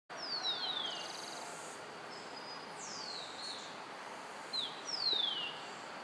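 Birds calling: several clear whistled notes that each slide down in pitch, with a short trill about a second in, over a steady background hiss.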